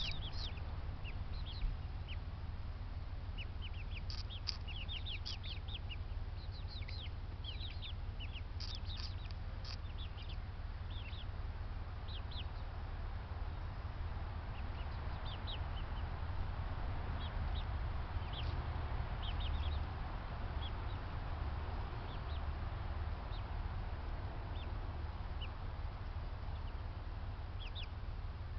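Birds calling: many short, high chirps, thick for the first dozen seconds and then sparser, over a steady low hum.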